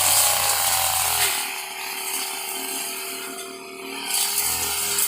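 Two-stroke brush cutter engine running at full throttle, then easing off to a lower speed a little over a second in, and picking up again about four seconds in.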